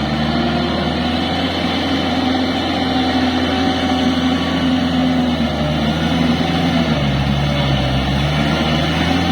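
Kubota L4503 tractor's diesel engine running steadily under load while driving a rotavator through a wet paddy field. The engine note dips and then recovers about two-thirds of the way through.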